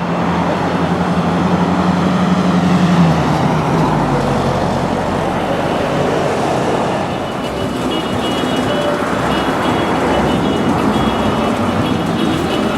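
The engine of a 1958 Chevrolet Apache pickup truck running, with a steady low hum in the first few seconds. Other car engines follow later on.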